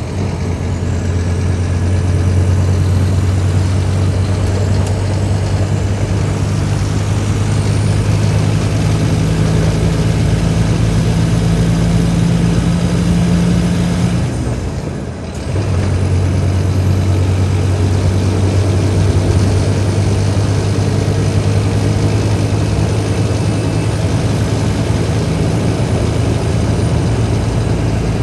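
Scania K310IB bus's diesel engine running under a steady drone. About halfway through it eases off for about a second, then picks up again, with a faint high whine that falls and rises with it.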